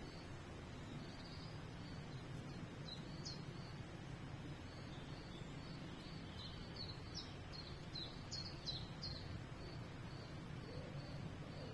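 Small songbirds chirping, with a quick run of short high chirps in the middle, over a steady low background rumble.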